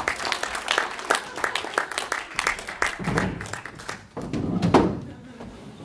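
Live audience applauding, many hands clapping unevenly with a shout or two from the crowd, dying away about four seconds in.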